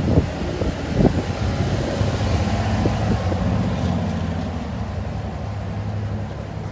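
Wind gusting on the microphone for about a second, then a car engine running with a steady low hum.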